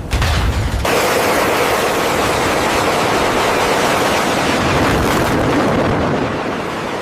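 A heavy low thud, then from about a second in a loud, steady rushing roar of jet engine noise on a carrier deck.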